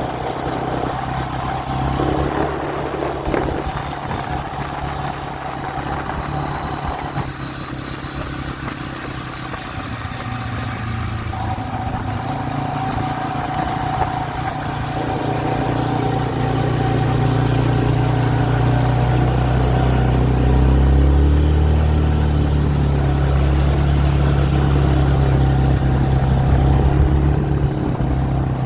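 A vehicle engine running steadily, growing louder over the second half.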